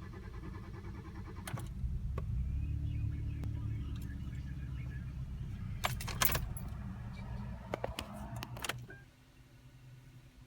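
Keys jangling at the ignition of a 2012 Hyundai Veloster while its engine is cranked. A low mechanical running swells about a second and a half in and carries on for about seven seconds, with clicks along the way. It cuts off suddenly near the end without the engine taking: the car's intermittent no-start fault.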